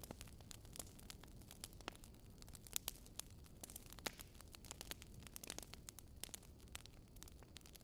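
Campfire crackling faintly: irregular sharp pops and snaps of burning wood, several a second, over a low steady rumble.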